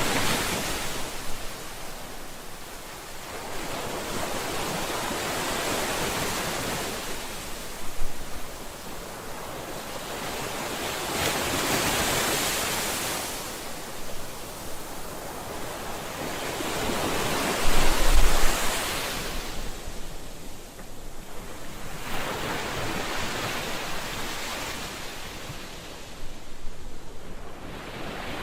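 Ocean surf: waves breaking and washing up the shore in repeated swells that rise and fall every few seconds, with heavier breaks at about 8 and 18 seconds in.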